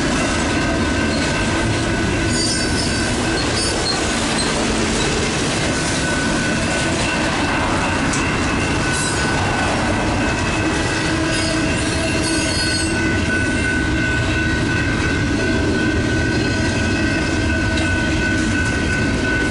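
Double-stack intermodal freight train rolling through a grade crossing: steady noise of wheels running on the rails, with a sustained high-pitched wheel squeal. A car drives past about halfway through.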